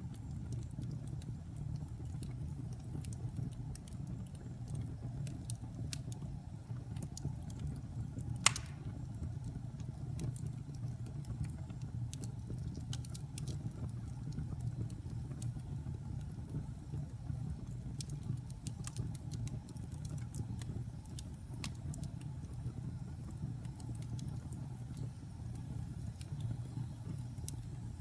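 Wood fire burning in a fireplace: a steady low rumble with scattered crackles and small pops, and one sharper pop about eight seconds in.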